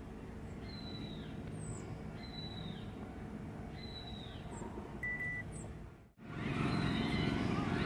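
A bird calling repeatedly over a steady low background noise: a high note held and then dropping, about every one and a half seconds. About six seconds in, the sound cuts out briefly and comes back as a louder, busier mix of outdoor noise with wavering tones.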